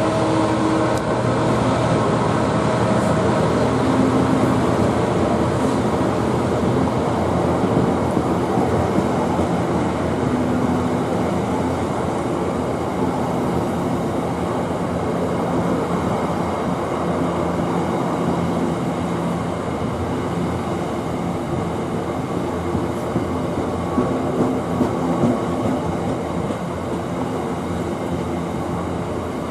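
Class 66 diesel freight locomotive running with its train: the two-stroke V12 engine drones steadily under the rumble of the wagons, with a few louder knocks near the end.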